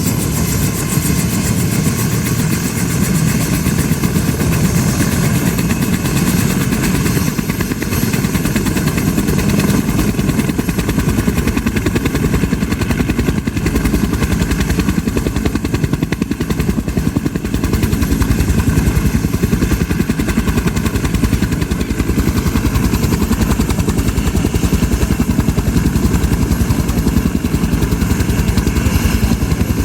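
Helicopter running steadily at close range, its rotor blades beating in a rapid, even chop over the engine's hiss.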